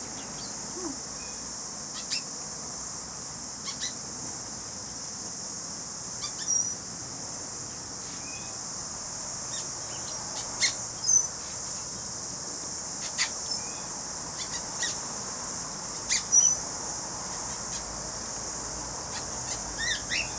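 A steady high-pitched drone of insects, with short bird chirps and clicks scattered over it from the aviary birds: cockatiels and newly introduced quail.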